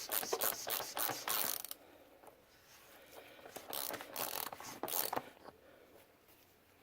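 Socket ratchet clicking in quick runs while a 36 mm socket unscrews an oil filter housing cap. One long run of clicks comes first, then two short ones about four and five seconds in.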